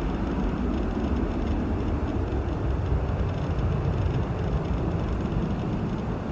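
Boeing 737-800's CFM56-7B jet engines at takeoff power, a steady deep rumble with a wide roar above it and no change in pitch.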